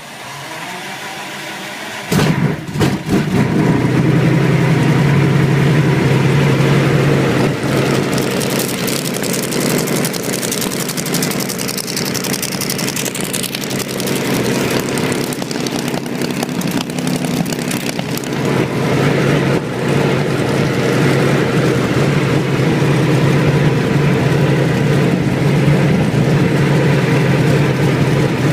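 Supermarine Spitfire's V12 piston aero engine on a cold start: the starter cranks for about two seconds, then the engine catches with a few uneven bangs and settles into a loud, steady run.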